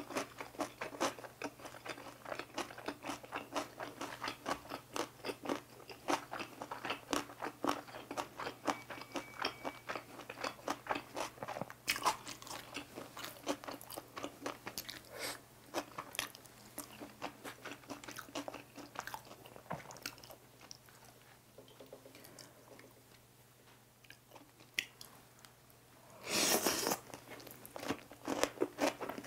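Close-miked chewing of cucumber gimbap, the crisp cucumber filling crunching in rapid wet clicks. The chewing thins out and nearly stops around the middle. Near the end comes one loud crunchy bite, and the chewing starts again.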